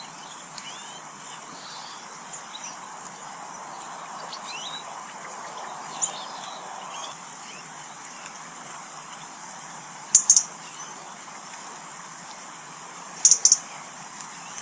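Small garden birds chirping at feeders over a steady outdoor background, with many faint short calls in the first half. In the second half come two loud pairs of sharp, very high chips, about three seconds apart.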